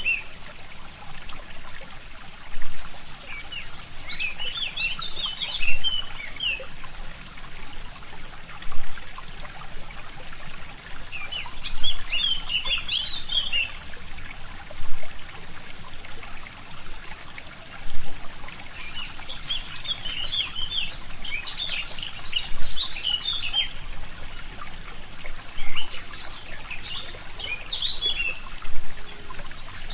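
Forest stream trickling steadily, with songbirds singing short, quick twittering phrases every few seconds.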